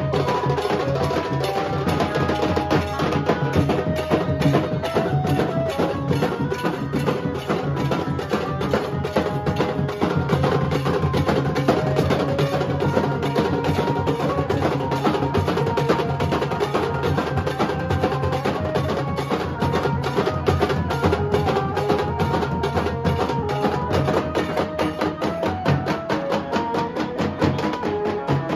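Nasik dhol band playing: dhol and tasha drums beating a fast, driving rhythm, with a melody of short held notes on a pitched instrument over it.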